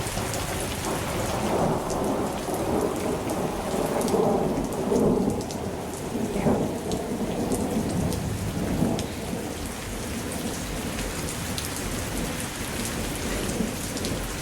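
Thunderstorm: steady rain pattering with fine drop ticks, and a low rolling thunder rumble that swells a couple of seconds in, peaks near the middle and dies away after about nine seconds.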